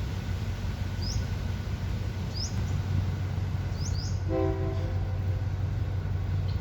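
Diesel train engine running with a steady low rumble, and a short horn blast lasting under a second about four seconds in.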